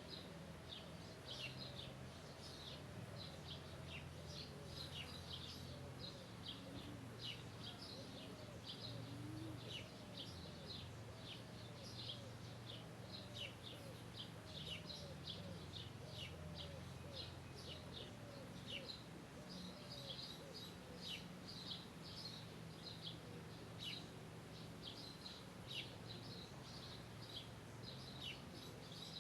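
Many small birds chirping all the way through, a dense, overlapping chorus of short high chirps, faint and over a steady low hum.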